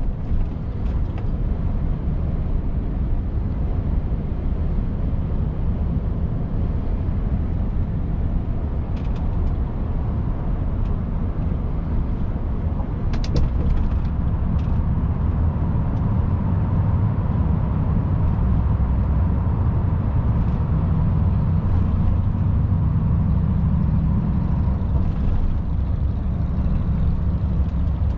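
Volvo FH 500 truck's 13-litre six-cylinder diesel running while driving, a steady low drone that grows fuller about halfway through, with a few short clicks.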